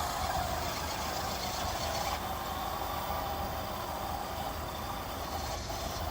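RC 6x6 truck's electric motor and gearbox whining as it drives, the pitch wavering slightly with speed, over a steady hiss.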